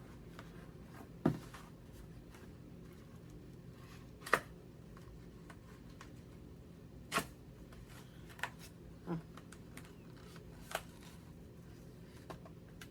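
Product packaging being handled and worked open with a dull knife: a handful of short, sharp clicks and taps, about six spread over the stretch.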